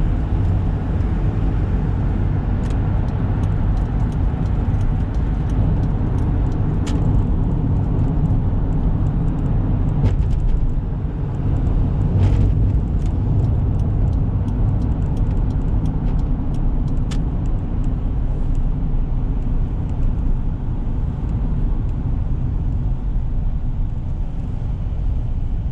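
1995 Toyota Granvia's 1KZ-TE 3-litre turbo diesel pulling the van along on a drive, heard as a steady low rumble of engine and road noise, with a few short clicks or knocks now and then.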